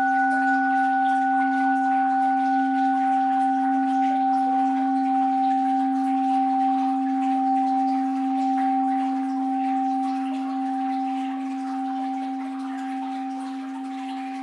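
An orin (Buddhist bowl bell) rings on after a single strike, holding a low tone and a couple of higher ones that slowly fade with a gentle wavering. Faint flowing water hisses underneath.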